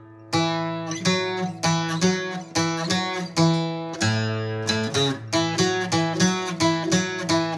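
Acoustic guitar picked slowly note by note, about three notes a second, in a campirano-style run over the open fifth string (A).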